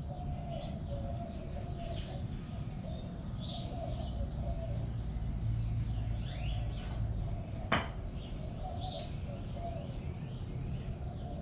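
Small birds chirping and a dove cooing over a steady low rumble, with a single sharp knock about three quarters of the way through.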